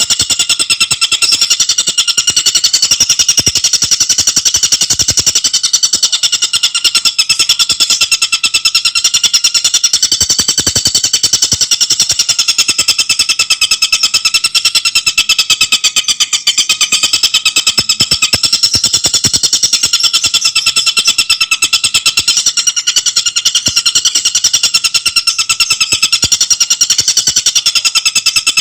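Tengkek buto calling in an unbroken, very rapid high trill, with no pauses.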